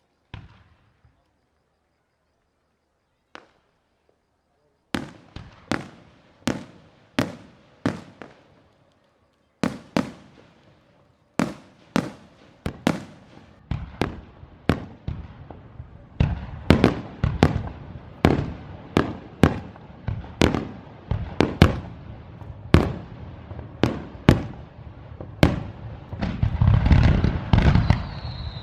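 Aerial fireworks shells bursting: a couple of isolated bangs, then sharp booms about once a second that quicken into a rapid barrage. Near the end the bursts overlap into a continuous crackle.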